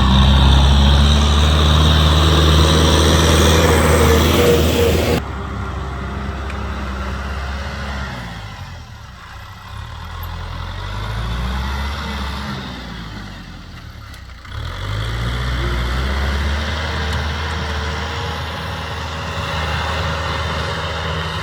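Kubota M6040SU tractor's diesel engine running. The sound drops sharply about five seconds in, and the engine note sinks and rises again twice in the middle.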